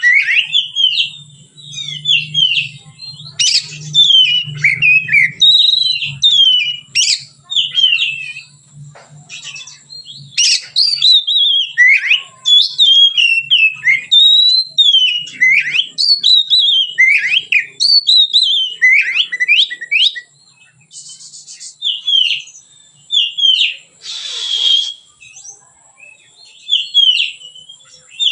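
Oriental magpie-robin singing a loose, varied song of loud whistled phrases that slide up and down, given in bursts with short pauses between them.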